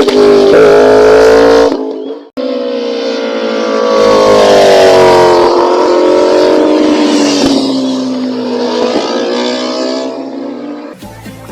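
Motorcycle engines running at high revs, their pitch rising and falling as they accelerate. The sound cuts out abruptly about two seconds in, comes back, and fades away near the end.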